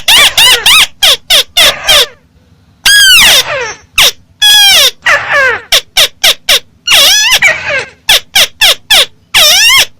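Loud, amplified calls of the bird known in Vietnamese as chim mắt xéo: a fast, unbroken series of short harsh notes that arch up and fall in pitch, with a few longer arching calls mixed in.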